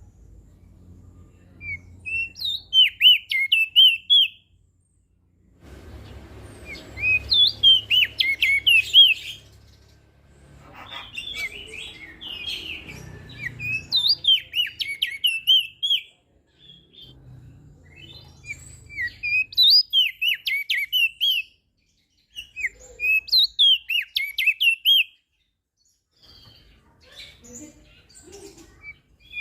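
Crested dark-eye (opior jambul) singing: repeated phrases of quick high notes that swoop up and down, each phrase a couple of seconds long, with short pauses between them.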